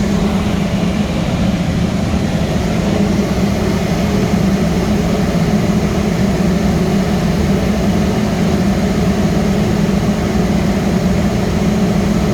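Steam boiler burners and their combustion blowers running steadily: a loud, even rumble with a constant low hum. The boiler being watched has cut in at 2 psi of steam pressure and is firing.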